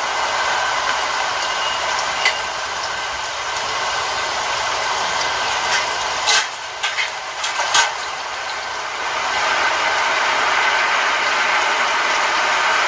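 Flour-coated chicken pieces frying in a pan of hot oil: a steady, dense sizzle, with a few sharp clicks a little past the middle.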